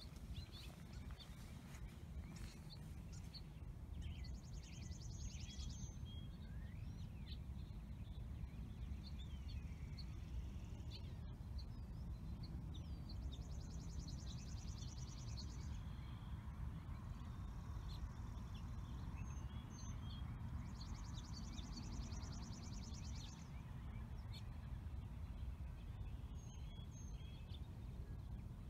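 Outdoor birdsong: scattered chirps, and one bird repeating a high, rapid trill about two seconds long every few seconds, over a steady low rumble.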